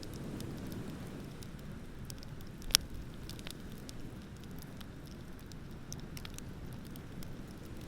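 Wood bonfire crackling with scattered small pops, and one sharp, loud pop about a third of the way in, over a low steady rumble of ocean surf.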